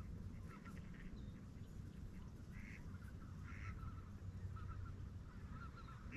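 Faint, repeated short calls of a flock of waterfowl circling over a flooded field, over a steady low rumble.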